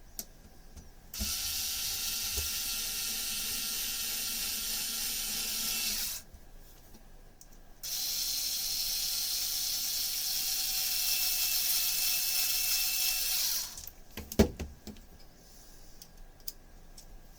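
A small geared electric motor running in two steady spells of about five seconds each, with a short pause between, then a few clicks near the end.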